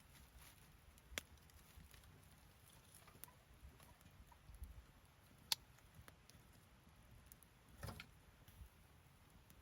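Wood fire burning with faint crackling and a few sharp, scattered pops, the loudest about five and a half seconds in.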